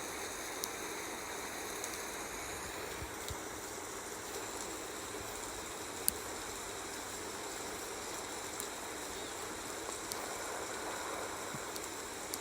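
Steady rushing water ambience, with a few faint sharp clicks.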